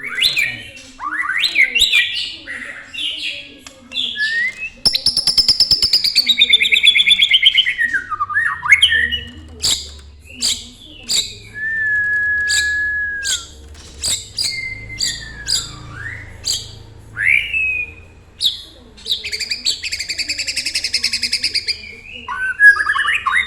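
A songbird singing a long, varied song. It mixes rapid buzzy trills, sharp chirps, sweeping notes and one steady whistled note held for about a second and a half, about halfway through.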